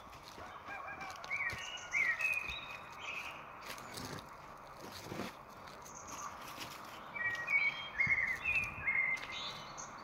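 A songbird singing two bursts of quick chirping notes, one about a second in and another around seven seconds in, over footsteps on a forest trail.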